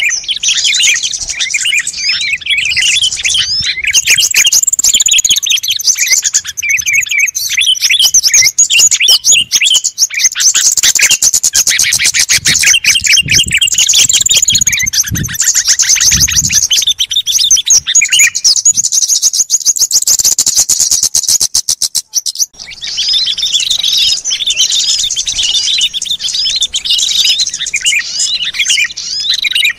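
Dense chorus of many small songbirds chirping and twittering at once: a bird-lure recording. Through the middle a very rapid ticking call runs for several seconds, and just past two-thirds of the way the sound drops out for a moment before the chirping chorus returns.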